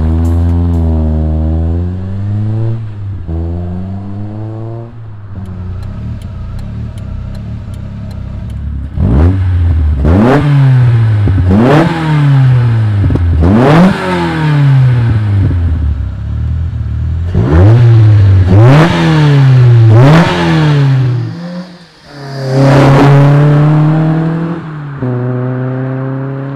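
A Toyota 4A-GE 20-valve twin-cam four-cylinder in a Corolla FX16 revving hard on the road. Its pitch shoots up and falls away again and again, then holds steadier near the end. The engine is running strong on a fresh road tune.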